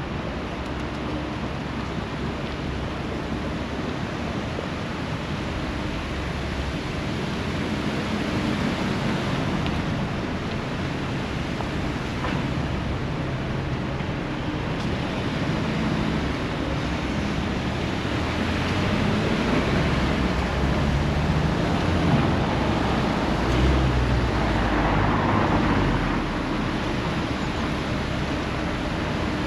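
Steady rushing noise of sea surf and wind, with a low rumble underneath that grows louder about twenty seconds in and eases off near the end.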